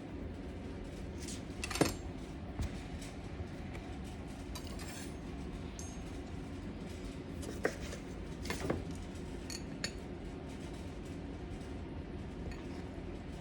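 Kitchen utensils and dishes clinking and knocking a handful of times over a steady low hum. The loudest knock is about two seconds in, and a few more come close together around eight to ten seconds in.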